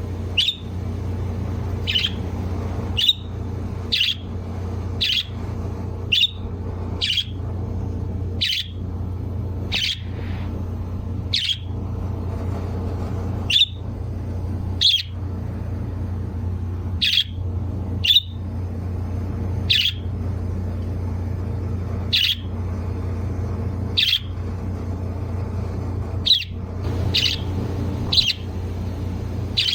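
A bird repeating short, sharp chirps about once every second or two, over a steady low hum.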